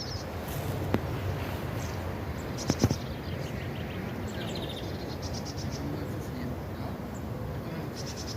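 Small birds giving short, rapid high-pitched trilled chirps every few seconds over a low steady rumble of outdoor background noise. Two sharp knocks, about one second and about three seconds in, are the loudest sounds.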